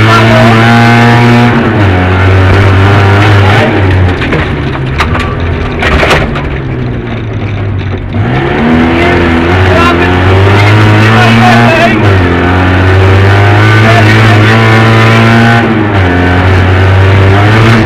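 Fiat 126p's air-cooled two-cylinder engine heard from inside the cabin at full stage pace, revs climbing and dropping repeatedly with the gear changes. It eases off and goes quieter for a few seconds about a quarter of the way through, then pulls hard again.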